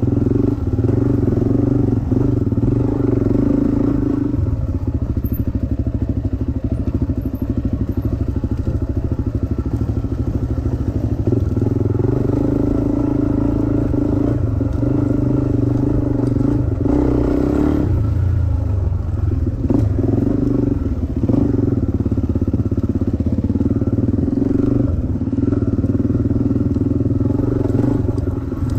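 Dirt bike engine running as it is ridden, the revs rising and easing off every few seconds.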